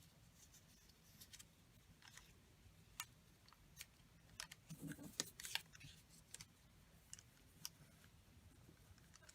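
Faint snips of scissors cutting paper, a scattered handful of short sharp clicks that bunch together about halfway through.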